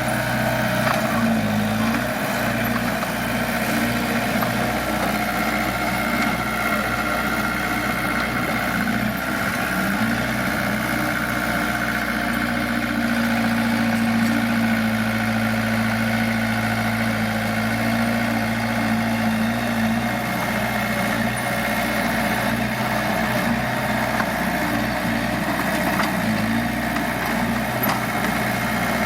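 Heavy diesel engine of earthmoving machinery running steadily, its pitch dipping briefly a few times.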